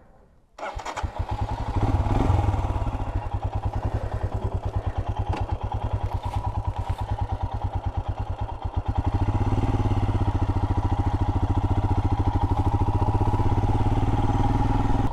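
Motorcycle engine starting up about half a second in and running with a rapid, even beat, growing louder about nine seconds in.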